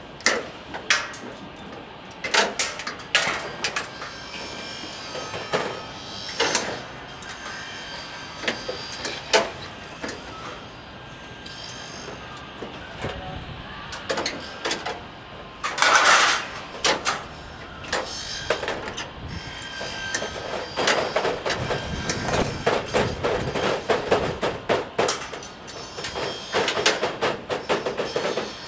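Irregular knocks and clanks of sheet metal being handled and worked while a chimney is clad, some with a short metallic ring. About two-thirds of the way through they turn into a dense run of quick taps.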